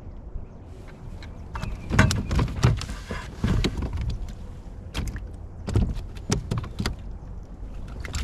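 A run of sharp knocks and clunks, loudest about two seconds in, over a low rumble of wind on the microphone.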